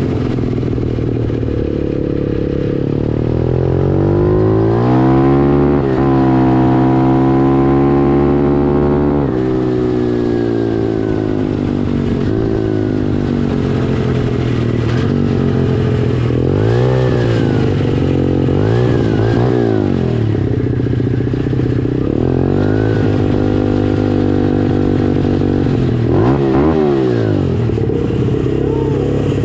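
Pit bike engine running close by: revs climb a few seconds in, hold high for several seconds, then drop back. Later come several quick rises and falls in engine pitch as the throttle is blipped.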